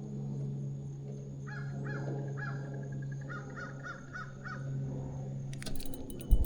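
A bird calls in a quick run of about ten short, arched calls over a steady low hum. Near the end come a few clicks and a sharp knock, the loudest sound here.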